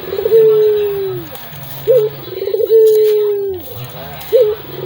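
Puter (Barbary dove) cooing in a repeating phrase: a short rising note, then a quick stuttering note that runs into a long, low held coo falling away at its end, heard twice.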